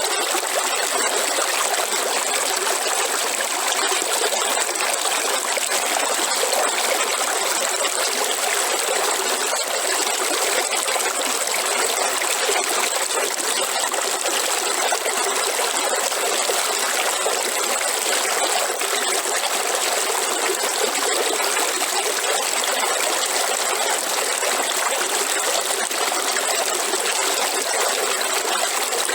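River water flowing and rippling steadily, with a thin, steady high tone over it.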